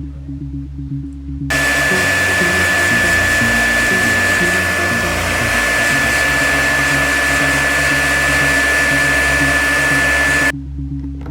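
Heat gun blowing, with a steady high whine over a rushing fan noise; it switches on about a second and a half in and cuts off abruptly near the end. Background music plays underneath.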